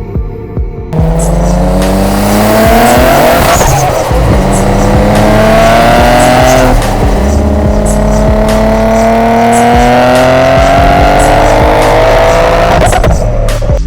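Nissan 300ZX twin-turbo V6 accelerating hard through the gears, its pitch climbing steadily, dropping twice at upshifts and climbing again.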